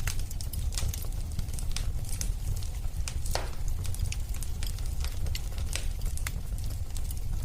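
Wood fire crackling in a fireplace: many sharp pops and snaps over a steady low rumble, with one louder, longer pop about three seconds in.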